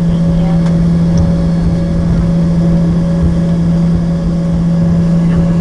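Loud, steady drone inside the cabin of an Embraer ERJ-145 regional jet taxiing with its engines at idle: a strong, even low hum with a fainter steady tone above it.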